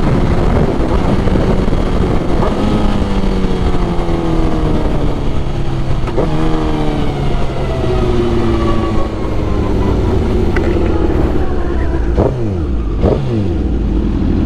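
Sport motorcycle engine running under wind and road noise. Its pitch falls steadily over several seconds, then jumps back up after a brief click-like shift, a few times over: the bike slowing down through the gears.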